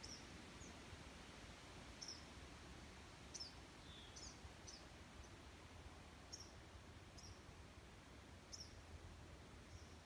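Songbird chirping faintly: about a dozen short, high chirps, each dropping quickly in pitch, at irregular gaps, over a faint low steady rumble.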